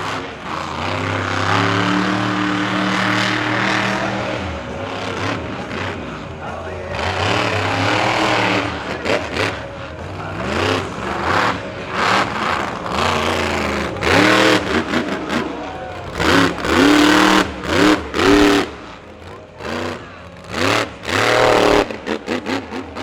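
Monster truck engine revving hard, held high for a few seconds, then a run of quick throttle blips rising and falling in pitch in the second half, quieter near the end.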